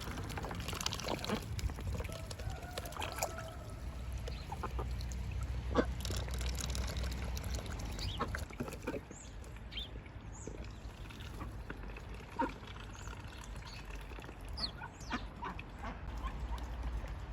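Indian Runner ducks quacking here and there while they dabble at their food and water, making scattered short clicks and splashy sounds.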